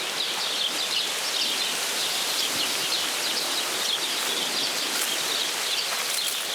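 Wild birds singing: a steady stream of quick, high twittering chirps over a constant outdoor hiss.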